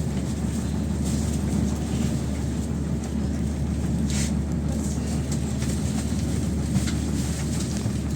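PAZ-32054 bus's ZMZ V8 petrol engine running steadily under way, a low drone with faint rattles. A brief hiss comes about four seconds in.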